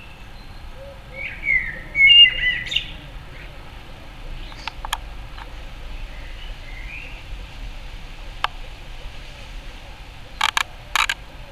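A songbird chirping: a few short warbled notes about a second and a half in, then fainter calls, and a quick run of sharp clicks near the end.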